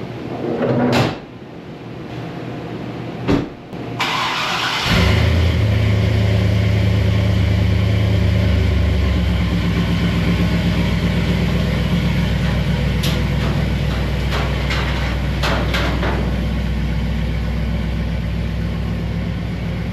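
Two sharp knocks, then about four seconds in a pickup truck's engine starts and settles into a steady idle.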